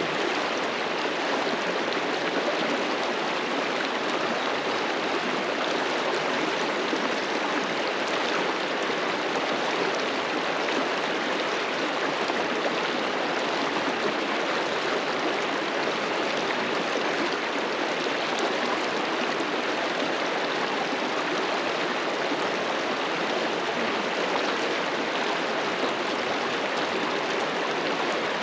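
River water rushing and gurgling over rocks, a steady, even rush with no breaks.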